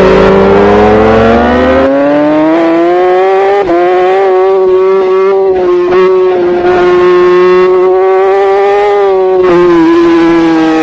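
Racing superbike engine at high revs, its pitch climbing over the first few seconds and then holding high, with two brief dips, before easing slightly near the end.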